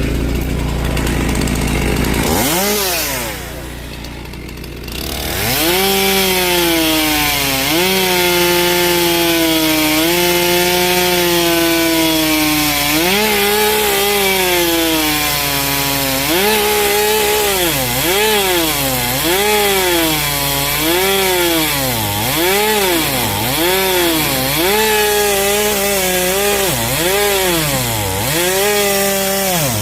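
Chainsaw cutting into a big log. After a short lull a few seconds in, the engine is throttled up, then its pitch repeatedly drops as the chain bogs in the wood and recovers, about once a second in the second half.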